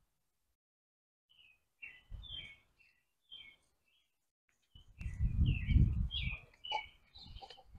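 Birds chirping in short, quick repeated notes. About five seconds in, a loud low rumble lasts a second or two.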